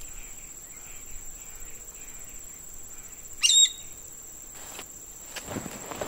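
A bird gives one sharp, high call that falls quickly in pitch about three and a half seconds in, over a steady high-pitched insect buzz and faint distant bird chirps. Soft footsteps through grass come near the end.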